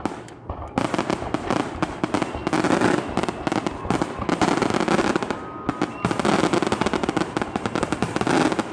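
Fireworks display: a dense, rapid run of bursting shells and crackles that thickens about a second in after a brief lull.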